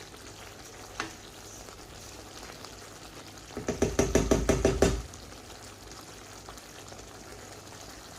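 Chicken karahi masala of tomato and yoghurt frying in the karahi on medium heat, with a faint steady sizzle. About three and a half seconds in, a spoon stirs and scrapes against the pan in quick strokes for about a second and a half.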